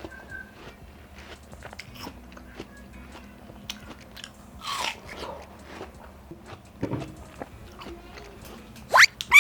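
Close-miked biting and chewing of juicy watermelon slices, soft wet crunches and small mouth clicks. Near the end come two loud, quickly rising whistle-like sweeps.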